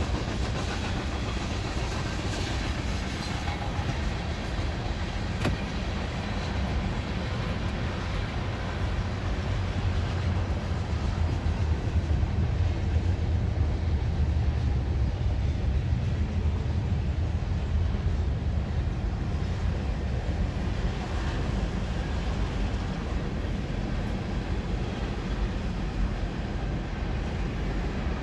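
Train railcars rolling past, a steady rumble of wheels on the rails that swells in the middle and eases again toward the end.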